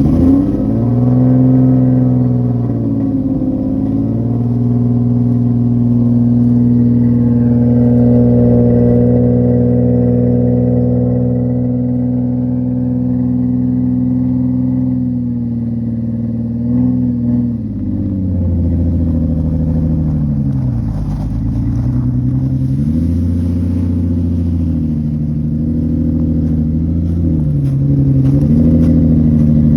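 A Nissan 350Z's V6 runs loud through its newly welded custom exhaust. Its revs are raised and held steady for about a quarter of a minute, then blipped up and down several times.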